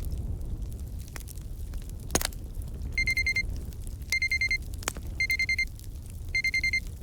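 Digital alarm-clock beeping marking the end of the countdown: four bursts of rapid high beeps, each about half a second long and about a second apart, starting about three seconds in. Underneath, a fireplace crackles with a low rumble and occasional sharp pops.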